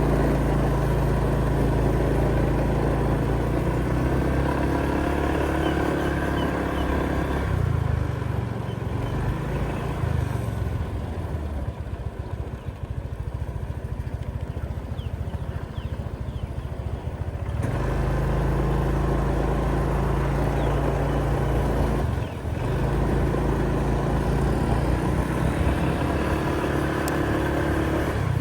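A motor vehicle engine running steadily with a low hum. For about ten seconds in the middle the hum gives way to a rougher low rumble, then the steady tone returns.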